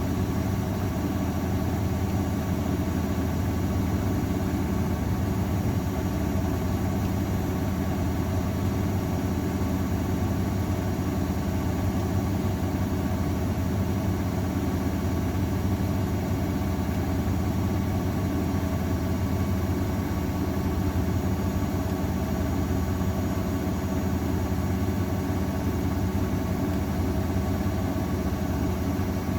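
AEG Öko_Lavamat 693 washing machine spinning at a steady speed in its final spin, a constant motor-and-drum hum with several fixed tones.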